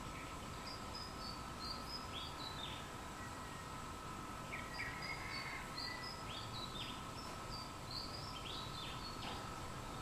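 Small birds chirping: short, high notes with quick downward slurs, in a brief run early and a longer run from about four and a half seconds in, over a steady background drone.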